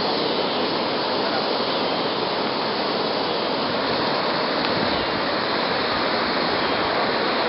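A river in flood, its fast, high water rushing past in a steady, even noise.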